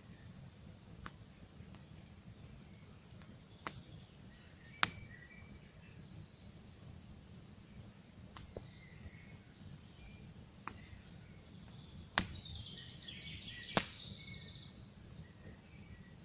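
Campfire crackling, with sharp single pops of burning wood every second or two, the loudest about five, twelve and fourteen seconds in, over a low steady noise. Small birds chirp in short high phrases throughout.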